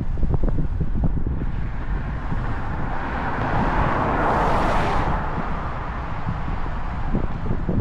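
Wind buffeting the microphone over a motorcycle's low engine rumble while riding. A rushing swell builds, peaks and fades in the middle, like a vehicle going past.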